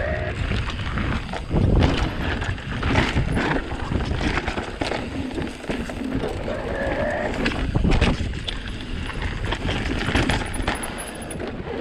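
Wind rushing over the microphone, with repeated knocks and rattles from an e-bike riding over rough forest trail.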